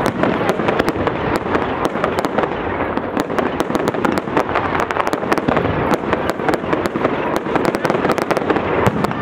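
Fireworks display: a dense, continuous run of sharp crackling pops from bursting shells and crackle stars, over a steady rumble.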